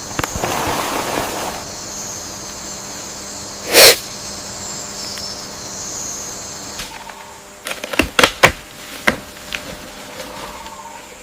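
Rainforest ambience with a steady high insect drone, broken about four seconds in by one short, very loud breathy blast, then several sharp cracks like twigs snapping near the end.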